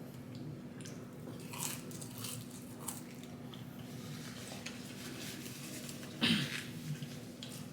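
A person chewing and biting food close to the microphone, with soft wet crunches and a louder bite about six seconds in.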